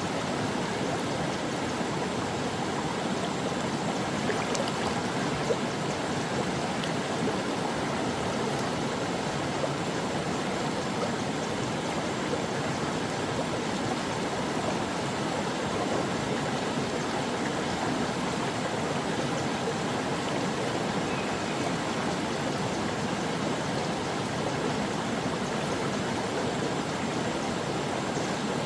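A stream flowing over rocks: a steady, even rush of running water with small splashes.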